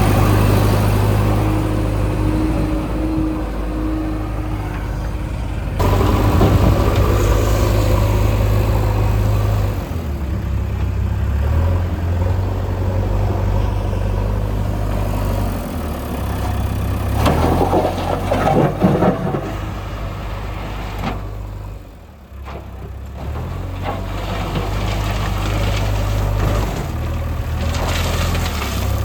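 Diesel engines of heavy road-construction machinery running, with the engine note shifting as the machines work. There is a louder stretch a little past the middle, then a brief dip.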